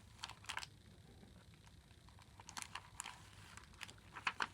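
Faint handling of paper and card pages: scattered short rustles and taps in small clusters as the pages of a handmade junk journal are moved and turned.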